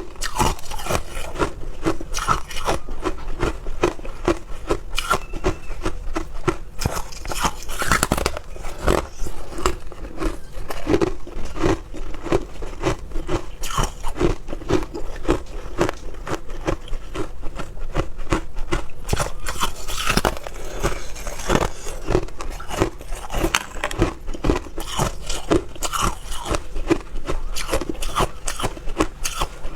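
Hard clear ice being bitten and chewed: a dense, continuous run of sharp cracking crunches, several a second.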